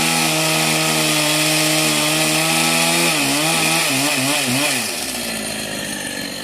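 Two-stroke chainsaw running at high revs while cutting into a log. Its pitch begins wavering up and down about three seconds in, then the engine drops away near five seconds.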